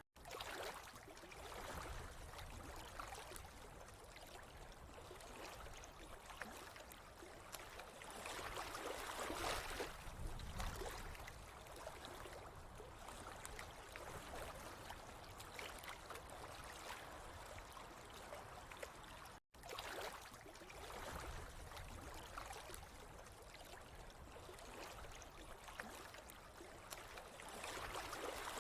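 Water trickling and gurgling steadily, swelling and easing every few seconds, cut by a split-second dropout right at the start and again about two-thirds of the way through.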